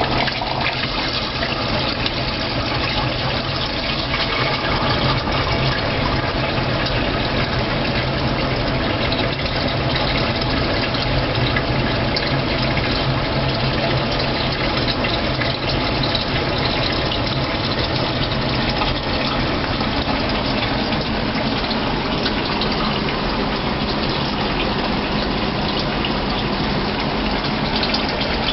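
Water jet spraying in a small hydroelectric turbine room: a steady rush of water with a steady low hum beneath. The jet flow is reduced because heavy rain changed the flow at the upstream water intake.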